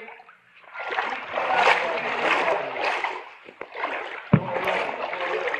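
Someone wading through flood water: the water sloshes and splashes in an even rhythm with each stride, with one sharp thump about four seconds in.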